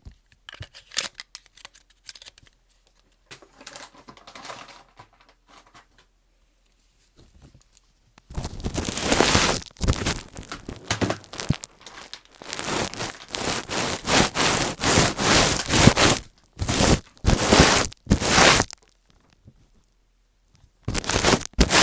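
Close-miked scratching, rubbing and crinkling right on an earphone used as the microphone, giving loud crackly scraping. It starts as sparse soft taps and rustles, turns dense and loud about eight seconds in, pauses briefly and starts again near the end.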